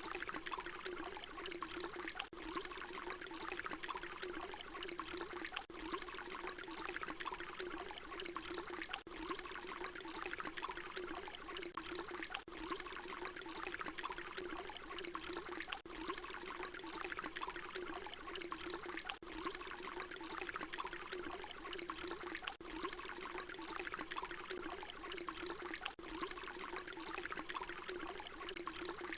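Water pouring in a steady stream, a short recording looped, with a brief dip in level about every three and a half seconds.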